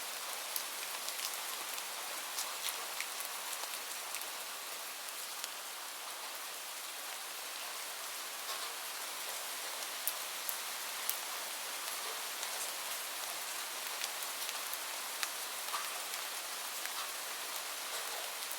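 Steady rain falling, a continuous hiss with scattered sharp ticks of drops throughout.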